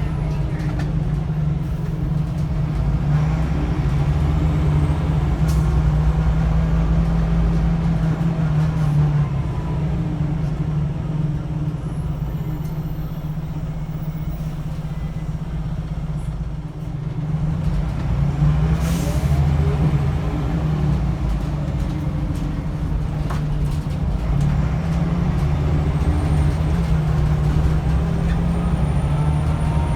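Scania L94UB bus's diesel engine heard from inside the bus, pulling through the gears of its ZF automatic gearbox. The engine eases back and quietens a little before the middle, then pulls away again with rising pitch a little past halfway, where there is a short hiss.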